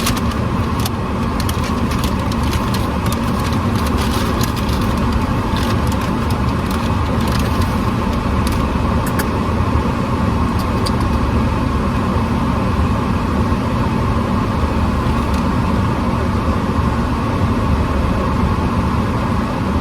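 Car engine running, heard from inside the cabin as a steady low rumble, with scattered small clicks and rustles in the first half.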